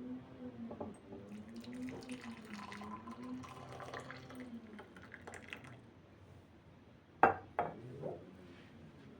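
Water running, as from a tap into a sink, with a wavering hum under it, for about five seconds and then stopping; a little after seven seconds come two sharp knocks in quick succession, the loudest sounds here, and a softer one just after.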